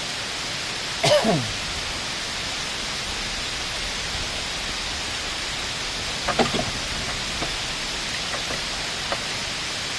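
Steady hiss of heavy rain falling, with a short voice sliding down in pitch about a second in.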